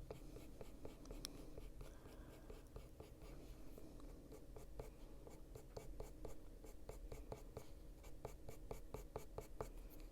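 Luminance coloured pencil scratching on paper in quick, short colouring strokes, about four a second and crisper in the second half, as dark colour is worked into a small area.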